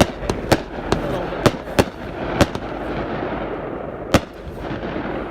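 Fireworks going off: a string of sharp cracks and bangs, most in the first two and a half seconds and one more about four seconds in, over a continuous din.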